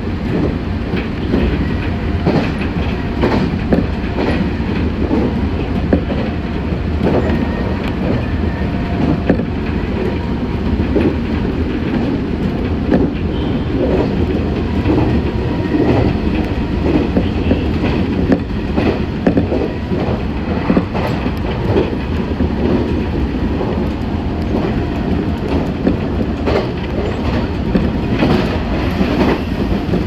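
Inside a Meitetsu 6500 series electric train running at speed: a steady low rumble with frequent irregular clicks and knocks from the wheels over the rails.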